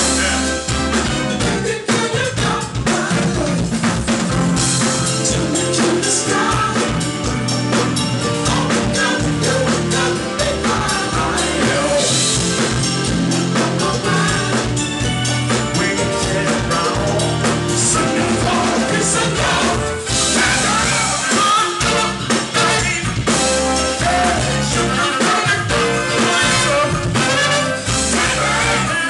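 Live band playing through the venue's PA during a soundcheck, a drum kit keeping a steady beat under keyboards and bass.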